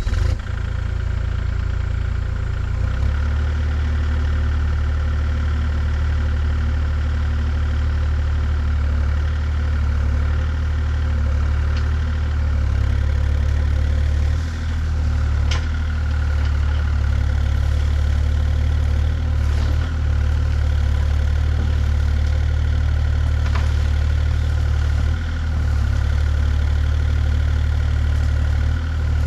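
An engine running steadily at idle: a deep, even rumble with a few steady tones above it, dipping briefly a few times.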